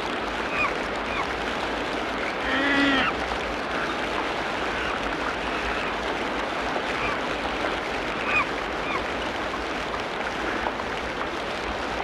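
Tropical rainforest ambience: a steady background hiss with short bird chirps scattered throughout, and one louder call of about half a second, about two and a half seconds in.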